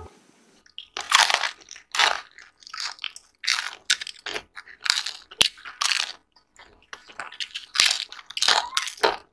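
Crunching and munching of crisp fried samosas being bitten into and chewed, a string of irregular crunches one after another.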